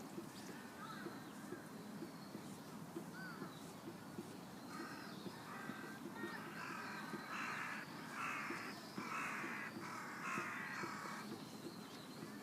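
A crow cawing, a run of about six or seven caws in quick succession starting about five seconds in, over steady outdoor background noise with a few faint bird chirps earlier.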